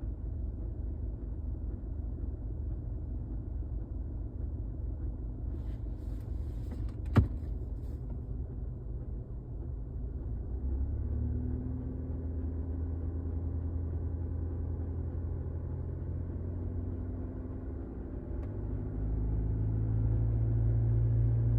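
2021 Chevy Colorado's 2.8-litre Duramax four-cylinder diesel running steadily, with one sharp click about seven seconds in. The engine note deepens around eleven seconds and grows louder near the end. The owner is asking about a clicking noise they cannot identify.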